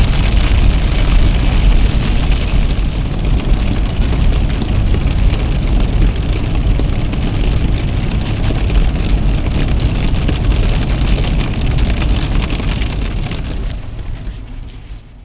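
Steady road rumble and rain hiss from a car driving through wet weather, fading out near the end.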